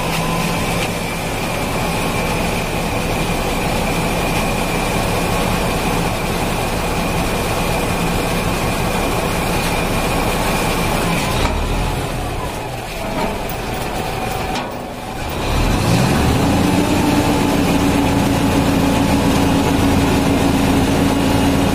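Kubota M8540 tractor's diesel engine running steadily at low speed, then revving up about three-quarters of the way through and holding at the higher speed.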